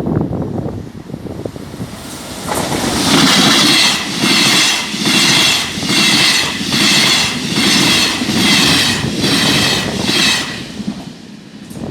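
A train passing over the level crossing, starting about two seconds in and passing for about eight seconds. Its sound swells and fades in an even rhythm of roughly once a second as each carriage goes by.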